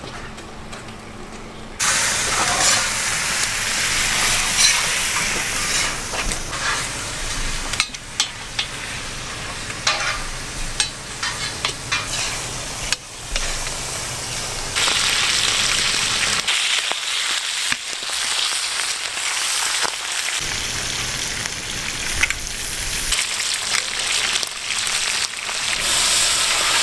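Python meat and mushrooms sizzling as they fry in a hot pan, starting suddenly about two seconds in, with many short clicks and scrapes of a utensil stirring them.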